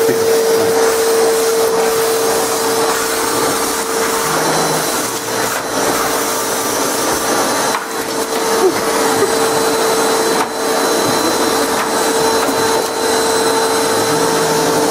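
Vacuum cleaner running steadily, a constant whine over a rushing hiss, with brief dips about halfway through.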